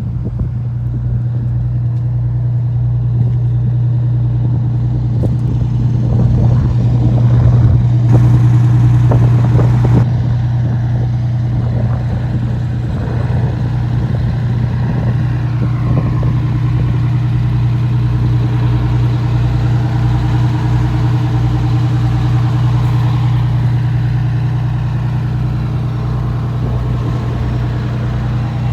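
1997 Pierce Arrow pumper fire engine's diesel engine idling with a steady low hum, louder for a couple of seconds about eight seconds in.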